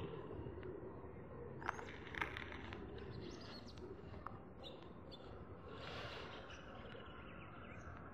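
Birds chirping faintly in short, scattered calls, a few about two seconds in and more near six seconds, over a faint steady background noise.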